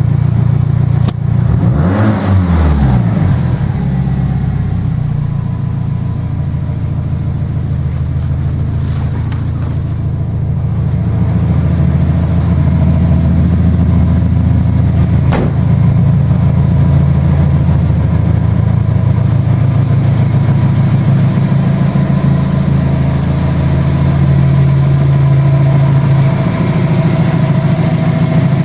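Subaru Impreza WRX STI Spec C's turbocharged flat-four running through a Trust aftermarket muffler. It gives one quick rev about two seconds in that falls straight back, then idles steadily.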